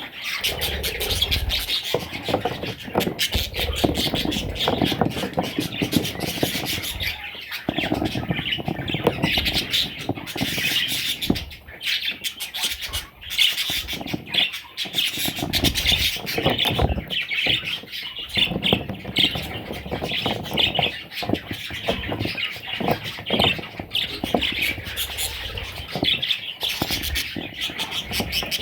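Parrot chicks squawking and chattering continuously, a dense mass of rasping calls, mixed with frequent bumps and rustling.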